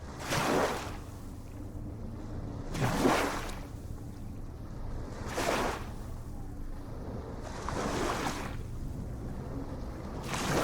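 Small ocean waves breaking and washing in, one surge about every two and a half seconds, five in all, over a steady low rumble.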